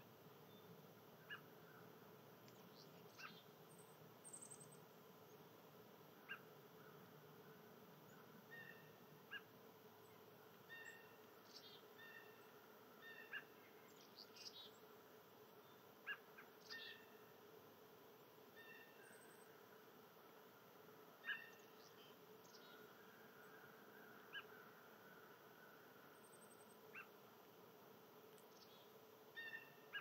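Faint, scattered chirps and short chip calls of small songbirds, one every second or two, over a low steady hum.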